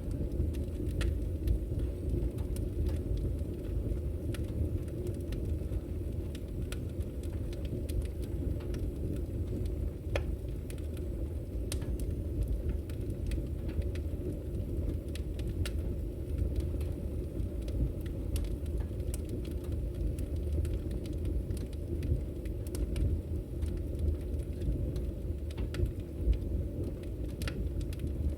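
Wood fire burning: a steady low rumble of flames with irregular sharp crackles and pops from the burning logs scattered throughout.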